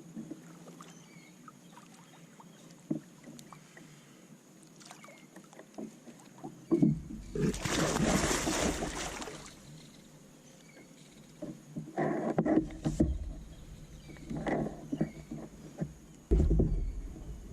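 Water splashing and knocking against a kayak as a hooked blue catfish thrashes beside the boat. After a quiet start with faint knocks, one long splash about seven seconds in, then several shorter splashes near the end.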